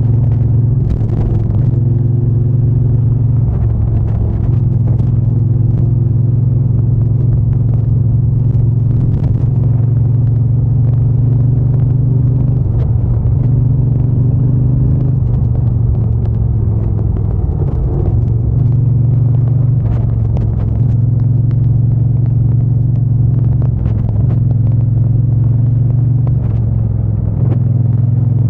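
Triumph Bonneville T120 parallel-twin engine and exhaust under way on the move, a steady deep drone whose pitch steps and dips several times as the rider shifts and changes throttle.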